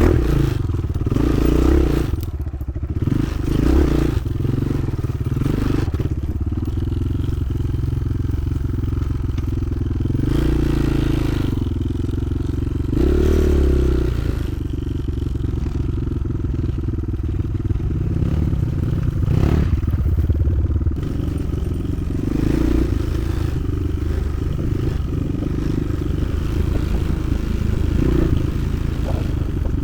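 Motoland XR 300 Lite enduro motorcycle engine running under way, its pitch rising and falling with the throttle several times, with rattling and scraping noise over it.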